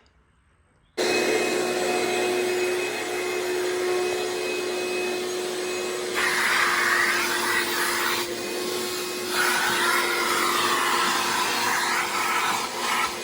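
A vacuum cleaner switched on about a second in and running steadily, with a steady hum under its rushing air. Its sound grows louder and rougher twice as it works.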